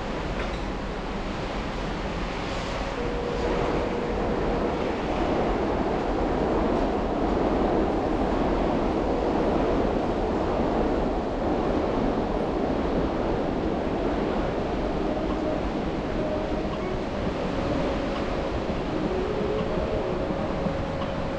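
Road and traffic noise from a car driving on wet, slushy city streets: a steady rushing hiss of tyres that swells louder for several seconds in the middle, with a faint steady hum underneath.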